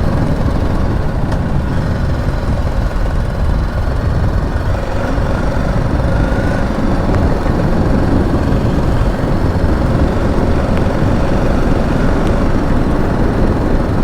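Motorcycle riding at steady speed: wind rushing over the helmet-mounted action-camera microphone, with the BMW G 310 GS's single-cylinder engine running steadily underneath.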